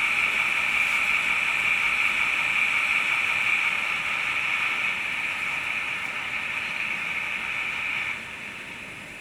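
HO scale model train running on the layout track, a steady hissing whirr of small motor and wheels on rail that drops away sharply about eight seconds in.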